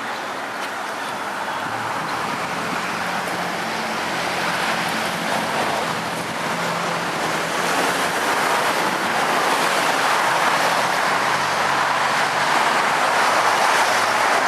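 Steady road noise of a moving car, an even rush with a faint low hum, growing gradually louder.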